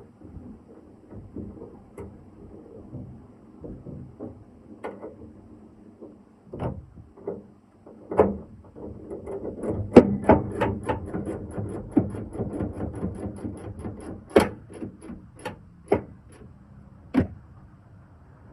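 Hard clicks and knocks of a pickup's plastic tail light assembly being handled and fitted into place. A few scattered knocks at first, then a dense run of rapid clicking and knocking from about halfway, with a few sharper knocks near the end.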